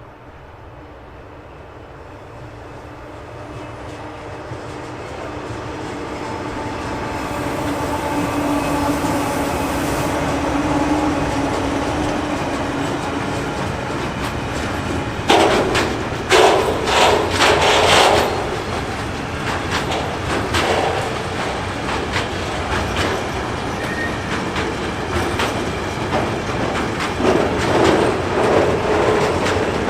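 A train approaching and passing close by: a rumble that swells over the first ten seconds with a steady tone, then loud wheel clatter over rail joints, in a burst about halfway through and again near the end.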